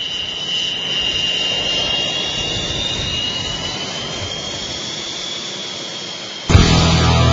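MiG-29 jet's twin turbofan engines running, a steady rush with a high turbine whine that drifts slowly in pitch. About six and a half seconds in, loud heavy-metal guitar music cuts in suddenly over it.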